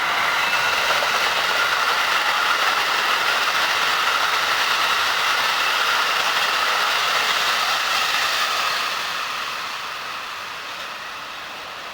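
Hankyu eight-car electric train passing at speed close by, a steady rush of wheels and running gear that fades away over the last few seconds.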